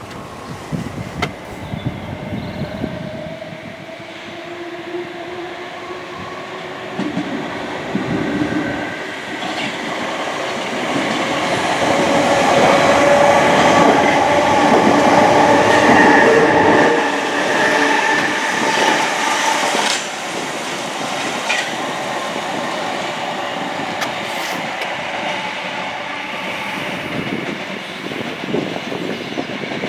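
A train passing on the line below, growing louder to a peak about halfway through and then easing off. A whine of several steady tones runs over the rattle of the wheels on the track.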